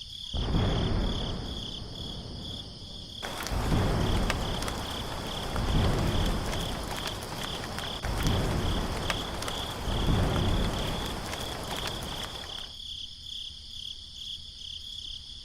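Insect chirping in a steady pulsing trill, with a rushing noise that swells and fades several times.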